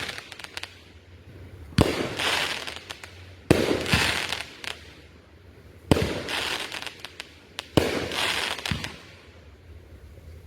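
Consumer (1.4G) fireworks going off: four sharp bangs about two seconds apart, each followed by about a second of crackling that dies away.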